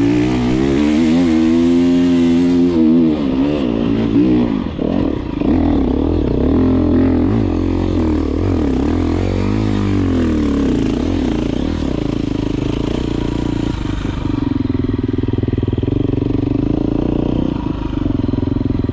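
Enduro dirt bike engine revving hard and unevenly, its pitch rising and falling again and again under load on a steep climb.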